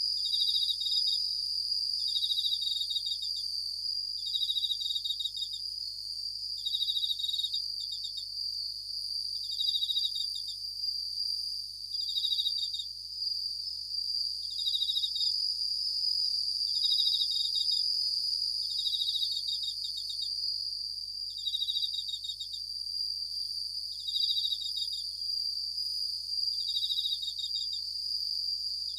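Japanese bell crickets (suzumushi) singing: short ringing, pulsed chirps repeated about every two to two and a half seconds, over a steady high-pitched insect trill.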